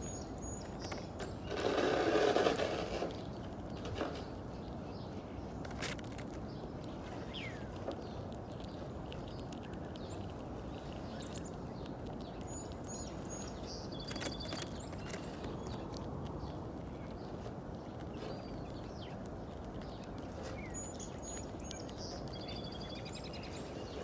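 Steady outdoor background noise with faint songbird calls: a short high chirp followed by a brief warbling phrase, heard twice about eight seconds apart. A brief loud rustle comes about two seconds in, and a few faint clicks are scattered through.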